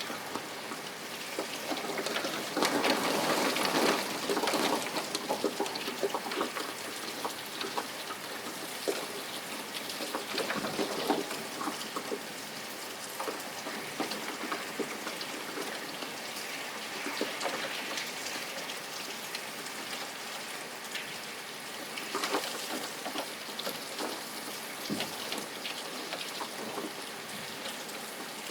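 Steady rain falling, with many small drop ticks, heavier for a few seconds near the start.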